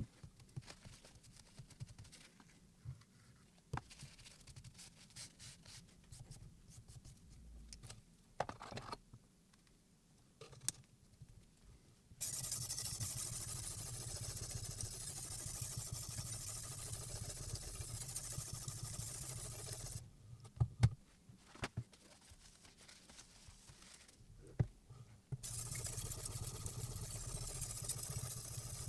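Scattered light scrapes and clicks, then a steady machine-like noise with a low hum and a high hiss that starts abruptly about twelve seconds in. It cuts off with a few sharp clicks, then starts again near the end.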